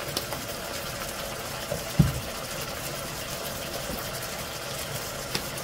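Meatballs and vegetables frying in a pot on an electric stove, a steady low sizzle, with one soft thump about two seconds in.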